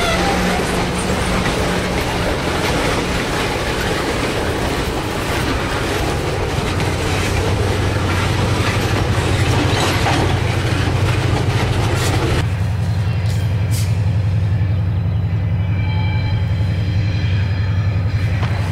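Freight cars rolling past: steel wheels clattering and rumbling on the rails over a steady low diesel drone. About twelve seconds in the clatter cuts off abruptly, leaving the low drone of the approaching EMD SW9 switcher's diesel engine.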